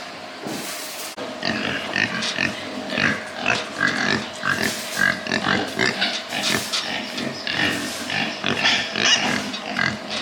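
Several pigs calling in a dense run of short, overlapping squeals and grunts.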